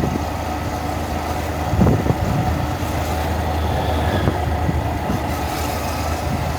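Honda Monkey's single-cylinder four-stroke engine running steadily under way, with road and wind noise on the camera's built-in microphone. A couple of brief thumps come about two seconds in.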